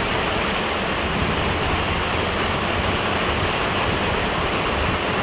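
Heavy downpour: a steady, dense hiss of pouring rain.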